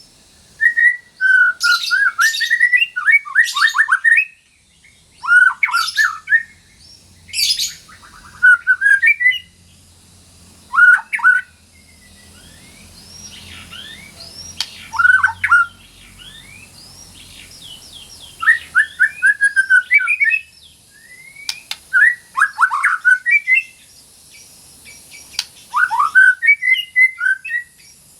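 White-rumped shama (murai batu) singing loud, varied song phrases with short pauses between them, and fainter, higher bird notes in the background through the middle stretch.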